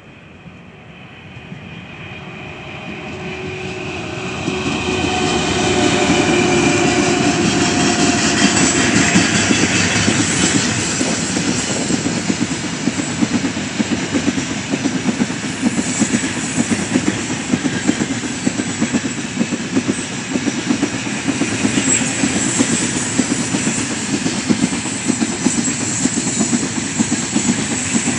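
A heavy electric-hauled freight train (3ES5K Ermak locomotive) approaching and passing at speed. The sound swells over the first six seconds, with a steady whine as the locomotive nears. Then the wagons' wheels clatter rhythmically over the rail joints without letup.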